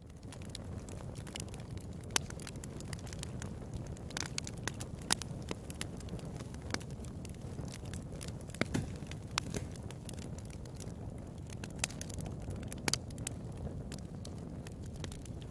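Fire in a fireplace crackling: a steady low rumble with irregular sharp pops scattered through it, a few of them louder.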